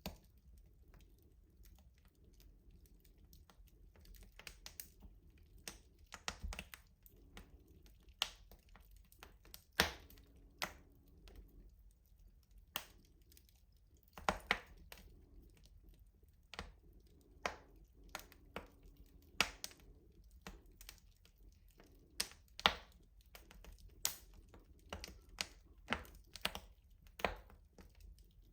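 Wood fire crackling in a rustic stove: irregular sharp snaps and pops, several a second, over a faint low rumble of the burning fire.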